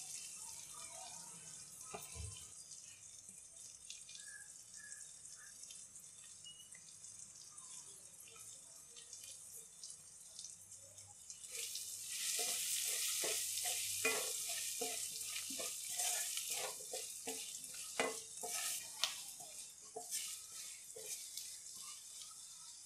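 Shallots and spices sizzling in gingelly oil in a steel pan, softly at first. About twelve seconds in the sizzle grows louder as a wooden spatula starts stirring, with repeated scraping strokes against the pan.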